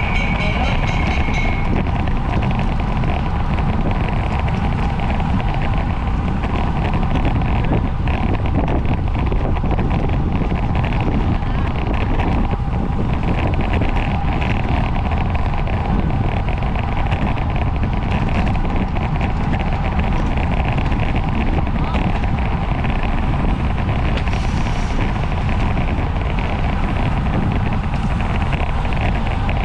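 Steady wind noise buffeting the microphone of a camera on a moving racing bicycle. A brief high-pitched sound is heard in the first second or so.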